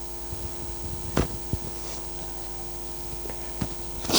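Steady electrical mains hum with a buzzy stack of overtones. A few soft knocks come through it, and a short hiss starts right at the end.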